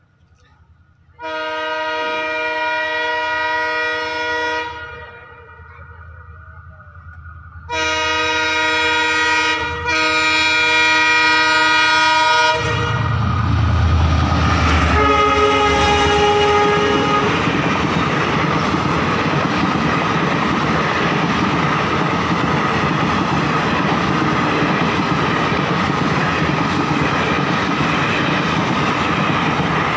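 Indian Railways special train approaching at speed, its locomotive sounding two long horn blasts. It then passes close with a shorter third blast, followed by the continuous rushing noise of the coaches going by.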